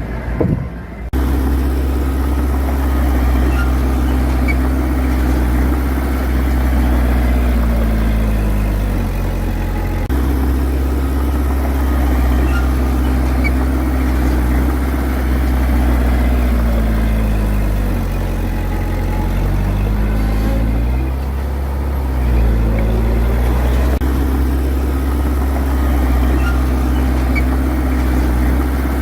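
Heavy diesel engine of earthmoving equipment running, its engine speed dropping and picking up again a few times.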